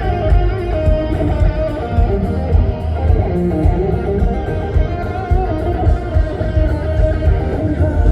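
A live rock band playing an instrumental break with no vocals: an electric guitar carries a bending lead melody over bass guitar and drums.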